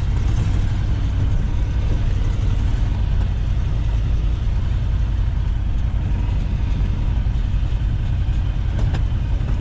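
1973 Ford F-250's 360 FE V8 running steadily at low speed, with a continuous low rumble, as the truck creeps along in gear. At low revs it runs only on the idle jets of its worn Motorcraft carburetor, which the owner blames for its lack of power.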